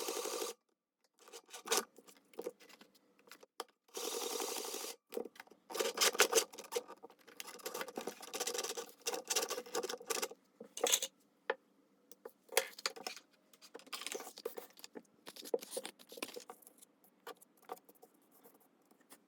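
Paper and craft materials being handled: a short steady scraping noise about four seconds in, then a long run of irregular rustles, taps and small clicks.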